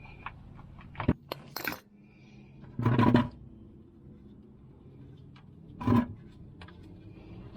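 Metal hand tools clinking and knocking while a drain plug is worked loose, with two louder clattering bursts about three and six seconds in.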